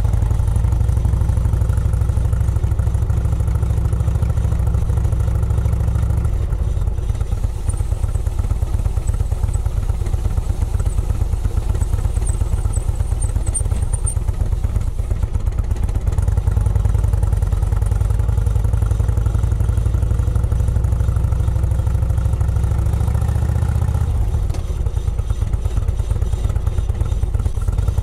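The car's engine running at low speed while driving slowly, a low, lumpy exhaust beat heard from on board. The engine note drops about six seconds in, picks up again around the middle, and eases off again near the end.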